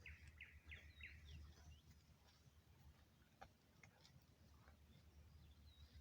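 Faint wild birdsong: a quick run of four short downward-sweeping notes in the first second or so, then scattered high chirps and ticks, over a low steady rumble.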